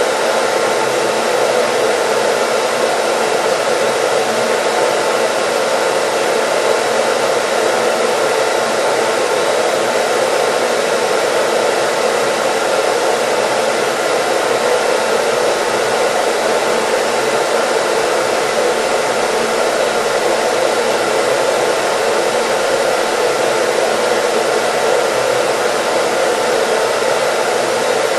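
Hair dryer blowing steadily: a constant, even rush of air with a faint steady hum in it.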